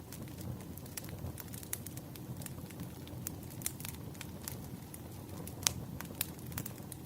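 Wood fire burning: a steady low rumble of flames with frequent irregular crackles and pops from the burning logs, one pop standing out a little after five and a half seconds in.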